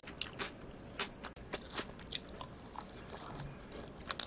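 Close-miked eating of raw yellowtail amberjack sashimi: chewing with many short, wet mouth clicks. Just after four seconds a quick cluster of clicks comes as a perilla-leaf wrap of the fish is bitten into.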